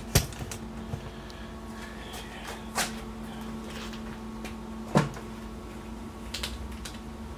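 A few sharp knocks and clinks of metal tools and panel being handled, the loudest about five seconds in, over a steady low hum.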